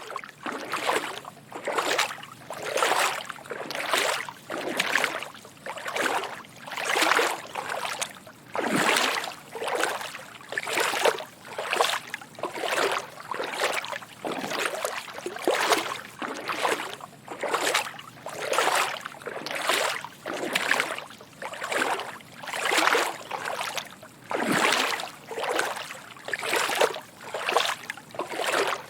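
Footsteps wading through shallow water: a soft sloshing splash with each step, about one step a second in an even walking rhythm.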